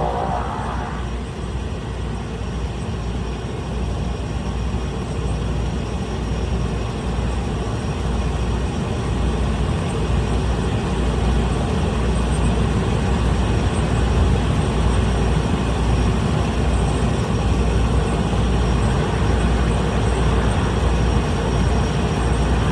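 Small plane's piston engine and propeller running, heard inside the cabin as a steady drone with deep rumble that grows gradually louder.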